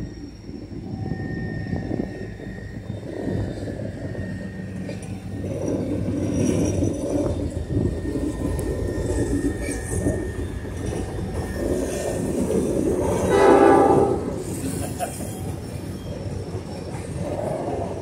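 Diesel freight locomotives rumbling slowly across a wooden railway trestle, the engine noise building as the lead units come past. About thirteen seconds in there is a short, loud blast of the locomotive horn.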